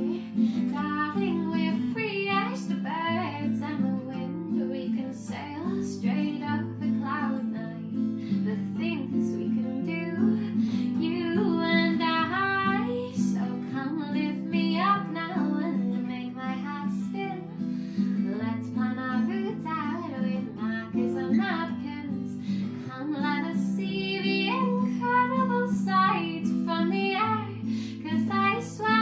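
A song: acoustic guitar strummed under a high voice singing a melody.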